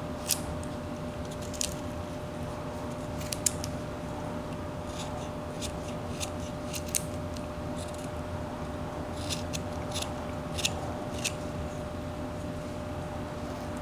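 Whittling knife shaving wood off a small carved wooden bird: a string of irregular, short, sharp snicks as the blade cuts, over a steady low hum.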